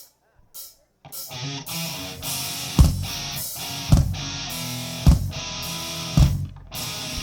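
A live rock band starts a song, with electric guitar chords coming in about a second in. Heavy drum hits then land about once a second.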